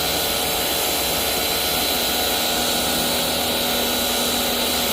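Electric pressure washer's motor and pump running steadily with a high whine: the machine is working again after its hose fittings were refitted.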